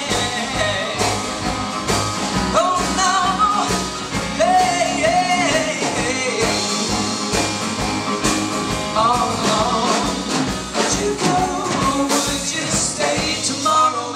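Live band playing the song with a steady drum beat and a sliding melodic line carried over it, in a stretch with no sung words.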